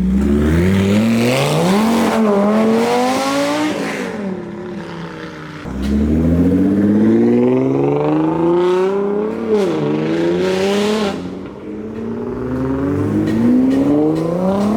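Performance car engines accelerating hard away, one after another. Each engine climbs steeply in pitch and drops back at gear upshifts, in three separate runs.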